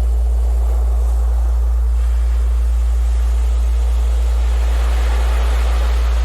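A loud, steady low tone (a Rife-frequency tone) runs unchanged under the wash of sea surf, which swells in the second half and then ebbs.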